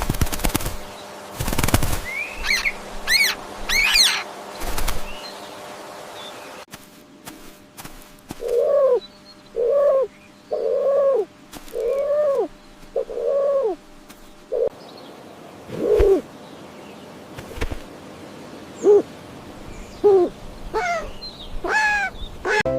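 Birds calling. Short high chirps come first, then a run of about six evenly spaced lower calls that each rise and fall, then a few falling calls near the end.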